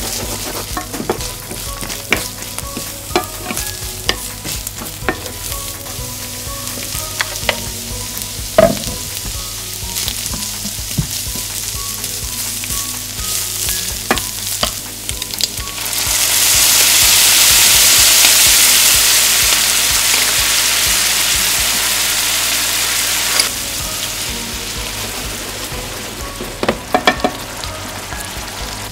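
Carrot sticks and bacon sizzling in a hot frying pan, stirred with a wooden spatula that knocks and scrapes against the pan now and then. About sixteen seconds in, the sizzle turns suddenly much louder and hissier as liquid seasoning hits the pan. It drops back sharply some seven seconds later.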